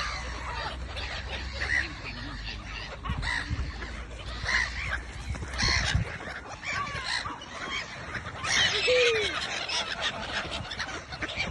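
A flock of ducks and other birds calling as they are fed, with many short calls overlapping and a few lower calls among them.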